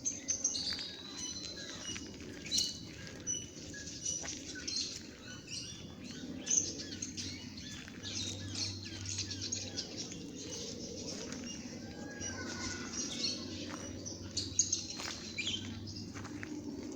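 Many small birds chirping and twittering continuously, with quick rising and falling whistles and scattered sharp clicks over a steady low background hum.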